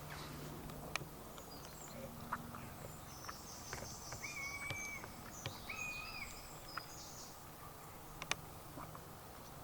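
Birds singing, with high chirps and two held whistled notes in the middle. Scattered light clicks and knocks of handled camp gear run through it, and a low steady hum fades out about two seconds in.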